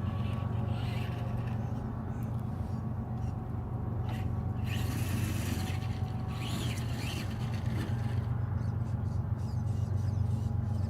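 A truck engine running at a steady idle, a constant low hum.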